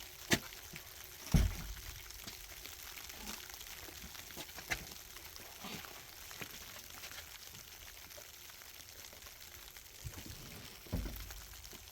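Steady hiss of food cooking, with scattered clicks and knocks and two dull thumps, one about a second and a half in and one near the end.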